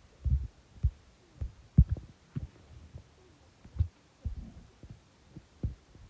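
Irregular dull, low thumps, about nine in six seconds, with faint clicks over a quiet background.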